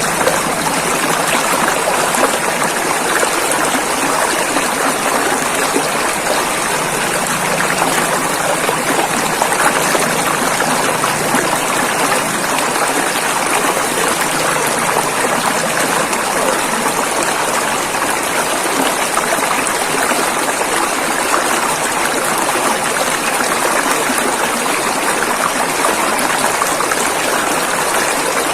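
River water flowing over rocks: a steady, even rush with small splashes and gurgles throughout.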